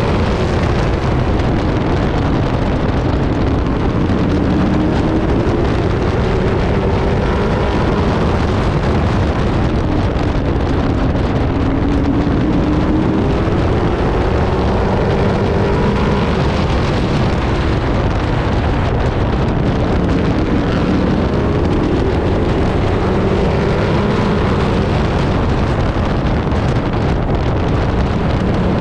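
Race truck's engine running hard under racing, heard from an onboard camera inside the cab, its pitch rising and falling every few seconds with the truck's speed, over steady wind noise.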